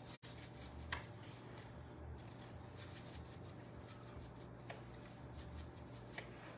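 Faint rapid rattling of a seasoned-salt shaker being shaken over raw chicken pieces in a bowl, with a few light clicks of handling, over a steady low hum.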